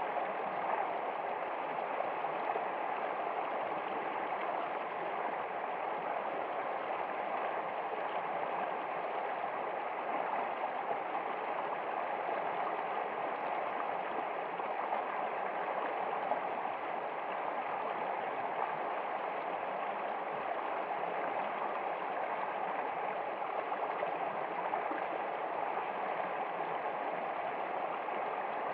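Steady running water of a stream, an even, unbroken gurgling rush with no change throughout.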